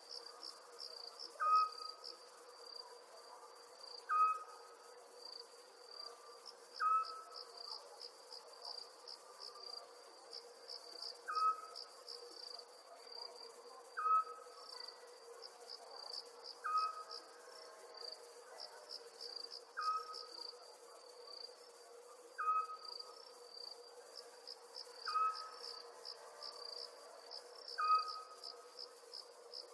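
Night chorus of crickets, a steady pulsed high chirping, over a low steady hum. A short falling call repeats about every two and a half to three seconds and is the loudest sound, about eleven times.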